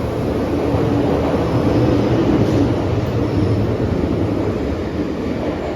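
MTR M-train EMU running, a steady rumble of wheels on track and traction motors with a faint held hum from the motors.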